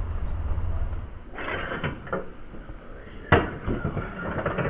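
A steady low rumble that stops about a second in, then some rustling and handling noises. About three seconds in comes a single sharp click, like a door or lid shutting.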